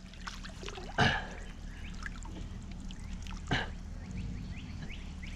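Lake water trickling and splashing as a waterlogged tree is dragged out by rope, with two louder splashes about a second in and about three and a half seconds in, over a low steady hum.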